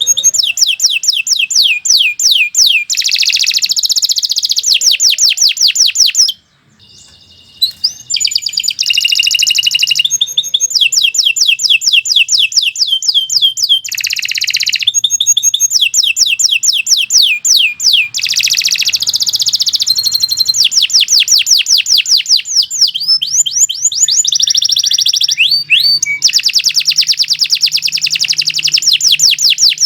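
Domestic canary singing a long, fast song of trilled runs, each a quick series of falling notes at roughly ten a second, with the phrases changing every second or two. The song breaks off for about a second near a quarter of the way in, then carries on.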